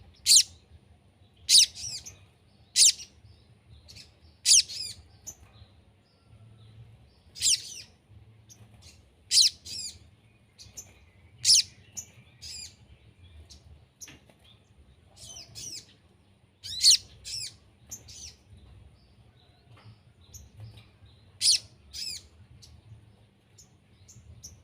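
Sogon birds calling: short, sharp chirping calls of quick sweeping notes, repeated every second or two at irregular spacing, as used to lure wild sogon into calling back. A faint low hum lies under the calls.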